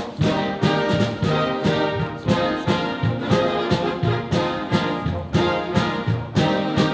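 Brass-led band playing an upbeat show tune with a steady, quick beat.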